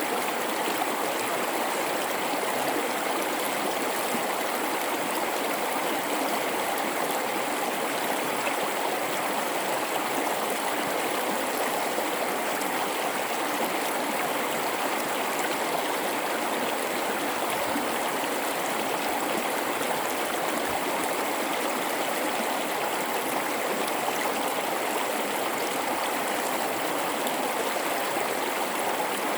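A gorge river flowing steadily, a constant rushing and babbling of water that does not change.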